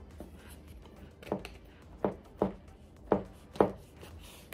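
A person chewing cornstarch with the mouth closed, close to the microphone: five crisp crunches in a little over two seconds.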